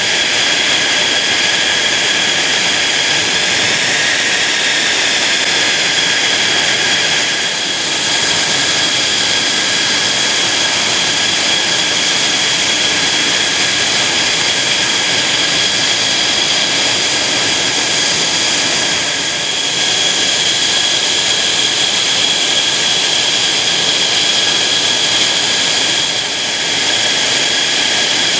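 Mitsubishi F-2A fighter's F110 turbofan jet engine, loud and steady, with a high whine of several held tones over a rushing noise and slight dips in loudness along the way.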